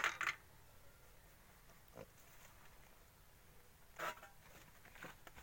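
A pig squealing in short, separate bursts while it is being castrated: a sharp squeal right at the start, a faint one about two seconds in, and another about four seconds in.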